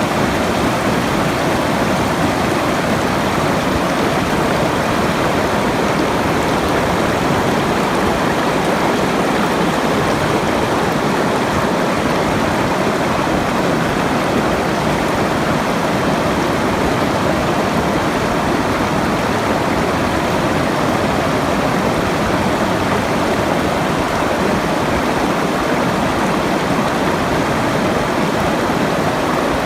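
Running water rushing steadily, an even hiss-like wash of sound with no breaks or changes, as in a sleep-sounds stream recording.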